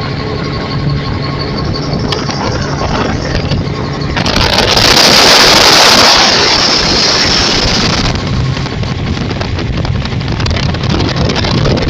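A motor vehicle's engine running steadily, with a loud rushing noise that swells for about four seconds in the middle.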